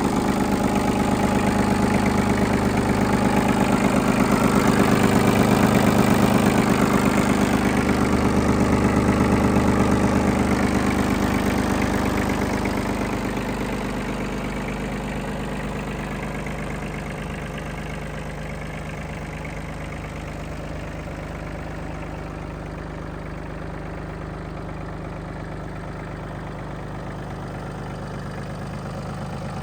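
Iseki TM15 compact tractor's 15 hp three-cylinder diesel engine running steadily, growing quieter about halfway through.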